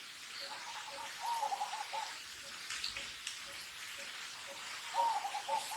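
A bird calling a short phrase of quick hooting notes twice, over a steady background hiss.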